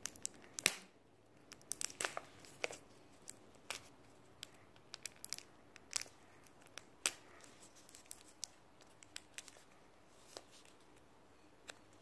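Fingers picking and prying at a hard-to-open plastic toy egg and its wrapping: irregular sharp clicks and crinkles, a couple of dozen scattered through the stretch.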